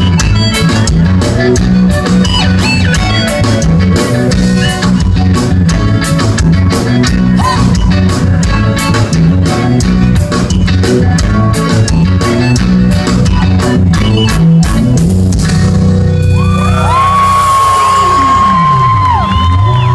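Live band playing an instrumental passage with a heavy bass and drum beat. Near the end the beat stops and a long held lead note, bending and sliding in pitch, takes over.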